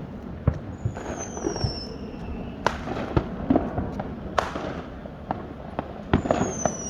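Fireworks going off: sharp bangs every second or so, with a high whistle that slides downward in pitch about a second in and another near the end.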